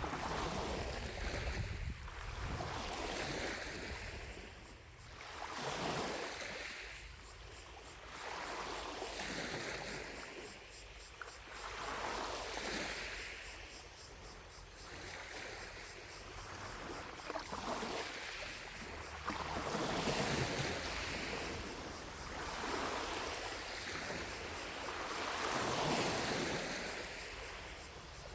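Small lake waves lapping on the shore: a soft wash that swells and fades every two to three seconds.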